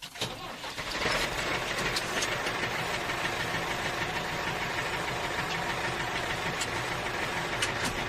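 A small motor running steadily with a rattling mechanical noise. It builds up over the first second, then holds even.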